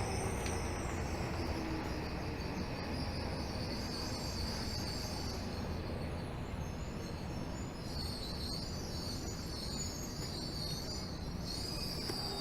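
Running sound of a Tokyo Metro Hibiya Line 13000-series subway train heard inside the car: a steady rumble with thin, high-pitched whining tones that waver and come and go.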